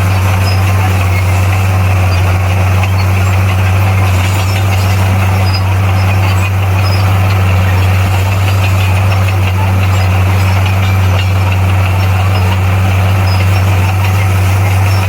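Diesel engine of a Komatsu D58P bulldozer running at a steady speed, a loud, even low hum.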